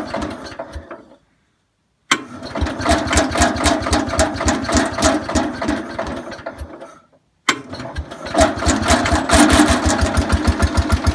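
Cub Cadet 147 garden tractor engine running with a steady firing beat just after a cold start below freezing, with the choke just pushed in. Twice its sound dies away into dead silence and then comes back suddenly at full strength.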